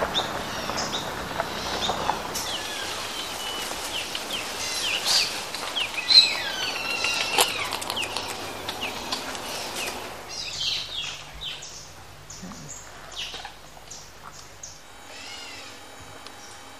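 Jungle birds calling and chirping, many overlapping high calls over a steady background hiss. After about ten seconds the calls thin out into separate chirps, with a quick run of repeated chirps near the end.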